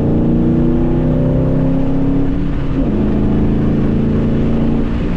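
2010 Ford Mustang GT's 4.6-litre three-valve V8 running at a steady idle; its pitch eases down slowly and drops a step about three seconds in.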